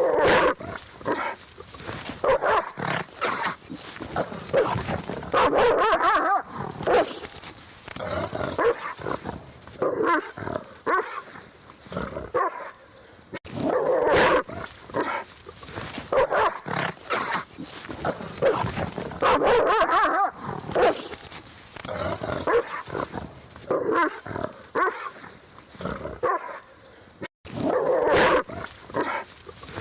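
A dog barking over and over, in short runs of barks with brief pauses between them.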